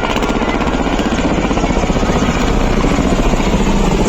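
Helicopter flying close by, its rotor beating loud and steady in a fast, even pulse.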